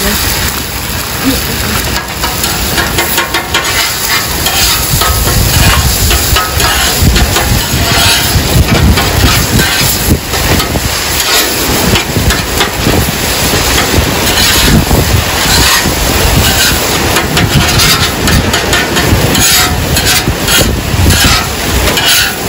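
Eggs sizzling on a flat-top griddle while a metal spatula scrapes and chops them against the hot plate, with many short scrapes and clicks over a loud steady rushing noise with a strong low rumble.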